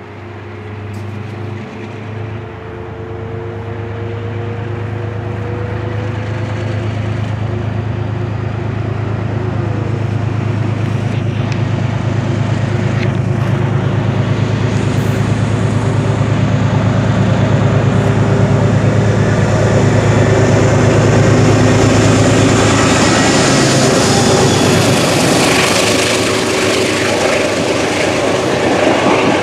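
Diesel locomotive of a passenger train approaching, its engine drone growing steadily louder. In the last few seconds the rush and rumble of the passing coaches on the rails rises over it.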